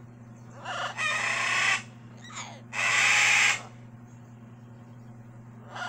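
Blue-and-gold macaw giving two loud, harsh squawks about a second long each, with a short, softer falling call between them.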